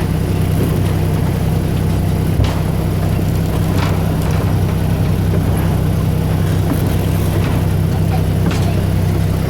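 Small tourist train running, a steady low engine drone with a few short clacks from the running gear.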